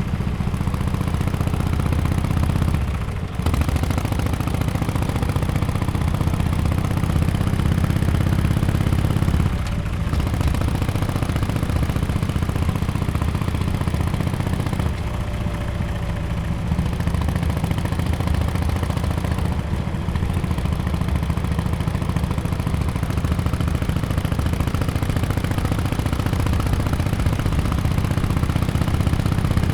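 2017 Harley-Davidson XL1200X Forty-Eight's air-cooled V-twin, fitted with an aftermarket exhaust, running steadily under way. The exhaust note briefly drops about three, ten, fifteen and twenty seconds in.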